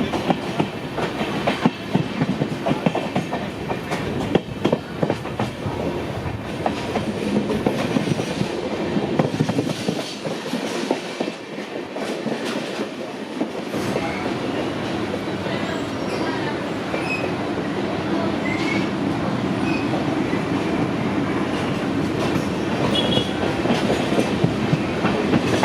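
Passenger express train running on the rails, its wheels clicking rapidly over the rail joints over a steady rumble.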